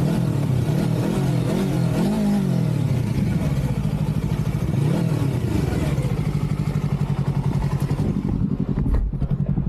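Motorcycle engine running steadily, a pulsing low drone that does not rise or fall.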